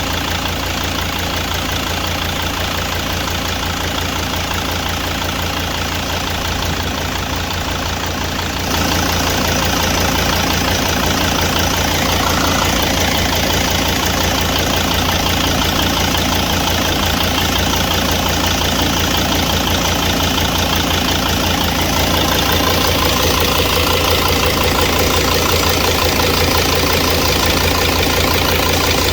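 2006 Mercedes Sprinter T1N engine idling steadily, its accessory belt running on a failing belt tensioner. The sound gets louder and brighter in a sudden step about a third of the way through, and a little louder again later.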